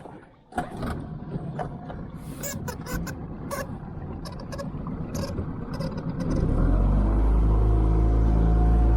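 9.9 hp Mercury outboard motor running at low revs with a few clicks and knocks, then throttled up about six seconds in to a loud, steady run.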